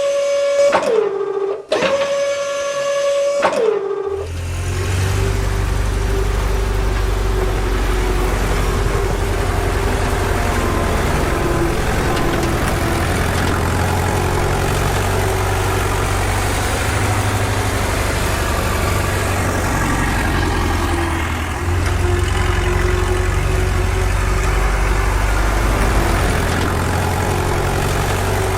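Two steady horn-like tones, each sliding down in pitch as it ends, then an engine starts a steady low-pitched run about four seconds in and holds it.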